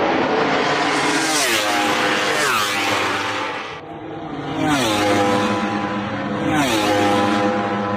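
Racing superbikes passing at full speed, several in turn. Each high-revving engine note falls in pitch as it goes by, with three or four passes in a row and a short lull about halfway through.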